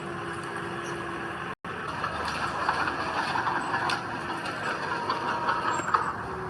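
Heavy earth-moving machinery running steadily, with crackling and clatter over the engine noise. The sound drops out for an instant about one and a half seconds in, then carries on.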